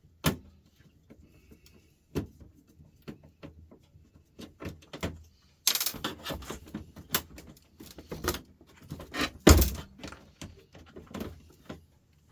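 Irregular clicks, taps and knocks of a small Torx screwdriver and the metal and plastic parts of an electric cooker grill head being handled and unscrewed, with one heavier knock about nine and a half seconds in.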